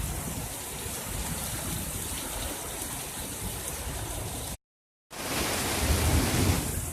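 Rain falling steadily in a thunderstorm. About two-thirds of the way through, the sound cuts out completely for half a second. It comes back louder with a low rumble of thunder.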